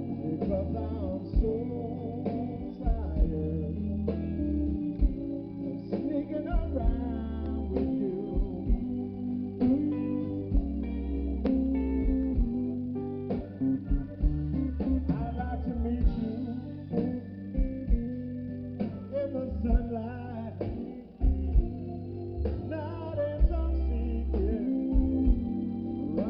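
Blues band playing live: guitar over bass and drums, with a steady beat.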